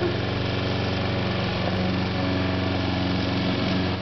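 Petrol lawn mower engine running at a steady speed.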